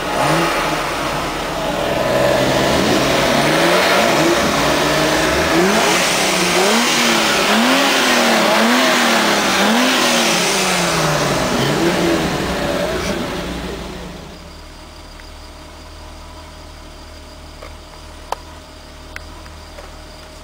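Several BMW E30 engines being revved. One is blipped rhythmically about once a second, its pitch rising and falling, over others revving at once. About two-thirds of the way through the revving dies away to a low steady hum, with a few light clicks near the end.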